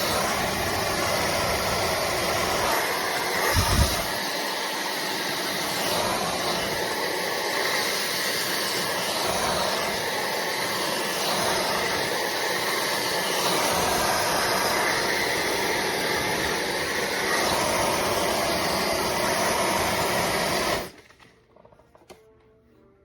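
Slopehill high-speed hair dryer running, a steady rush of blown air with the whir of its fast motor, with a low thump about four seconds in. The sound cuts off suddenly near the end.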